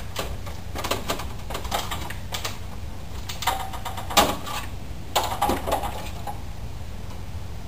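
Irregular light knocks and clicks of equipment being handled, several in quick succession early and a sharper knock about four seconds in, over a steady low rumble.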